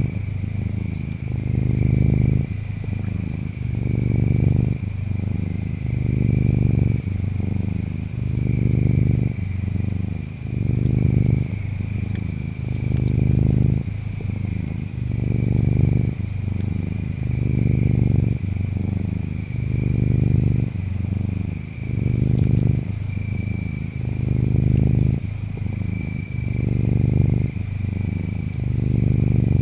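Domestic cat purring steadily, swelling and easing in even cycles about every two seconds. Over it runs a thin, steady insect trill, with short, very high insect chirps every couple of seconds.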